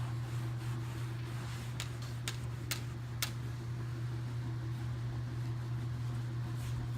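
Four quick sharp spritzes of a trigger spray bottle of waterless car wash and wax, about half a second apart, over a steady low hum.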